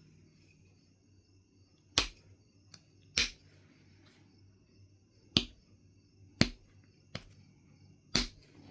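Flintknapping on Knife River Flint: five sharp clicks, one every second or two, each a tool striking or pressing the edge of the flint as a flake snaps off, with two fainter ticks between them.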